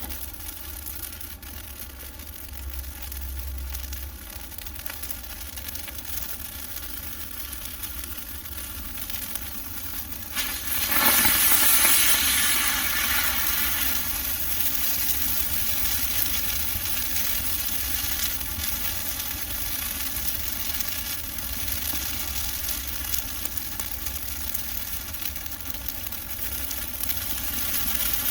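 Bonfire of dry Christmas trees burning with a steady crackle and hiss; about a third of the way in it flares up suddenly, becoming much louder, and keeps burning hard.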